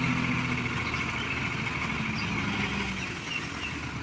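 Diesel engine of heavy earthmoving machinery running steadily, its note easing off about half a second in.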